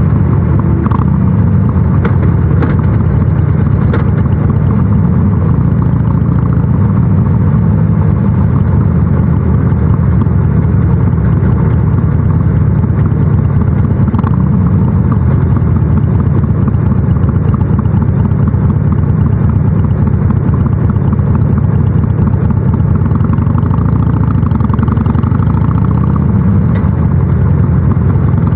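Harley-Davidson Sportster 883 SuperLow's air-cooled V-twin running through a North American-spec muffler while ridden, a steady low rumble. A few faint clicks come about two to four seconds in.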